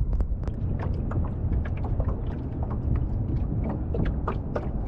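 Wind rumbling on the microphone, with a run of irregular sharp clicks and knocks over it.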